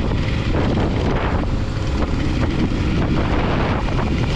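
Motorcycle riding along, engine and tyre noise under heavy wind buffeting on the microphone.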